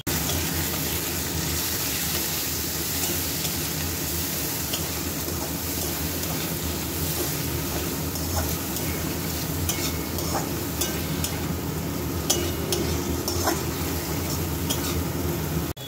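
Ground spices and potatoes frying in oil in a metal kadai, sizzling steadily while a metal spatula stirs and scrapes the pan, with scattered light clicks.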